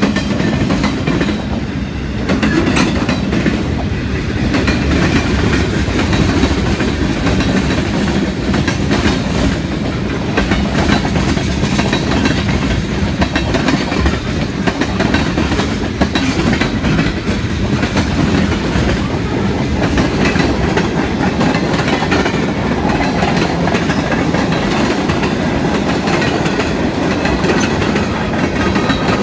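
Freight cars of a passing CN freight train rolling by, autoracks and then tank cars: a steady, continuous rumble of steel wheels on the rails.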